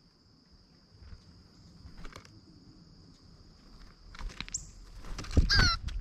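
A bird gives a short harsh call near the end, a quick run of falling notes, with knocks and thumps close to the microphone just before and during it. A steady high insect drone lies underneath.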